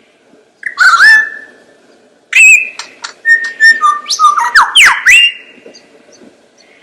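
A bird whistling and squawking. A short whistled call comes about a second in, then a rapid run of varied whistles, sharp clicks and rising and falling glides, ending in a long held whistle that fades away.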